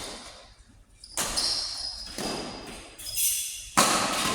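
Game play echoing in an indoor sports hall: four sharp hits or impacts about a second apart, each ringing on in the room, with brief high shoe squeaks.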